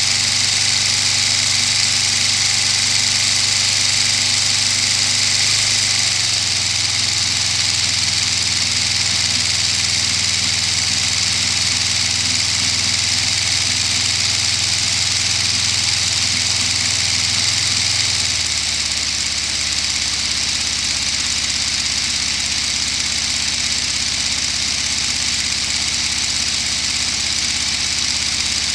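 Lego inline-12 two-stroke diesel engine model running steadily with a constant high hiss, dropping to a lower speed about six seconds in and again about eighteen seconds in.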